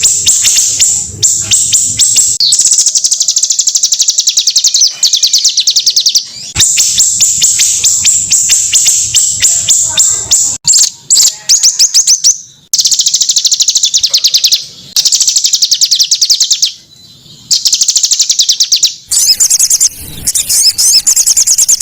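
Small songbird singing a high, fast trilling song in long phrases with brief pauses between them.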